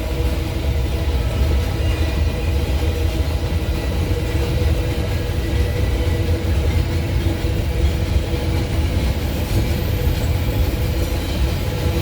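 Empty iron-ore freight train rolling past: a steady low rumble of wagon wheels on the rails, with a few faint steady tones over it.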